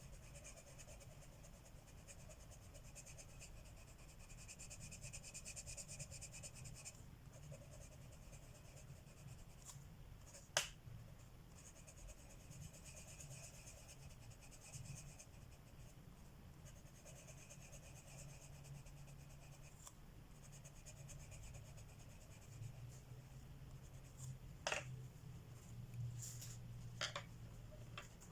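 Coloured pencil scratching faintly on paper in stretches of strokes, with a few sharp clicks of pencils being put down or picked up.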